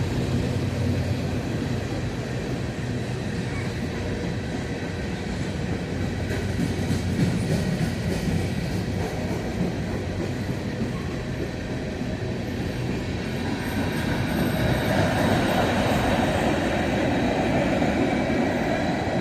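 Freight train cars rolling slowly past, a steady rumble and clatter of steel wheels on the rails that swells a little in the second half.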